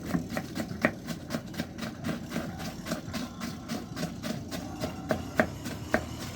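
Quick, even knocking, about four to five strokes a second, with a few louder knocks, over a low steady rumble.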